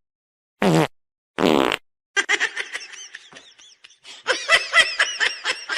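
Two short, loud fart-like blasts of wavering pitch, then a person laughing in quick bursts from about two seconds in.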